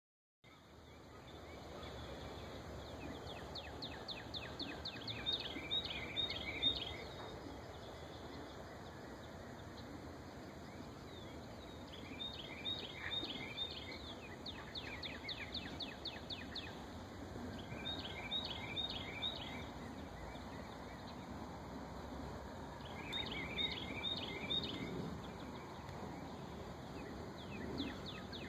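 A songbird sings short phrases of quick, high chirping notes, repeated about every five seconds, over a steady low background noise.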